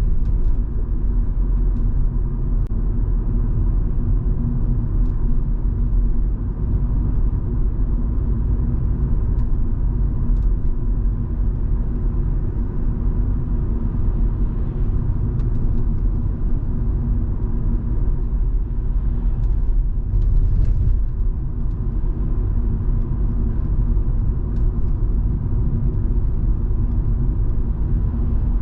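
Steady road and engine rumble inside the cabin of a Volvo V70 2.5T, its turbocharged five-cylinder engine cruising at an even speed with a faint steady drone. Faint scattered ticks come through over the rumble.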